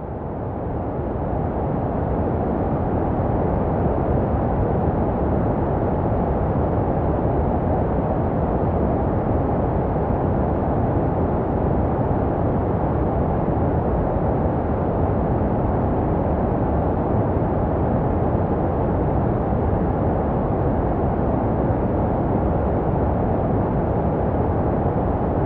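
Steady, muffled white noise for soothing a baby, made to resemble the sound heard in the womb, with most of its weight low down and little hiss on top. It fades in over the first couple of seconds, then holds level.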